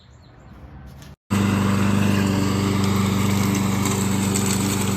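Lawn mower engine running steadily at a constant speed. It starts abruptly about a second in, after a brief moment of faint quiet.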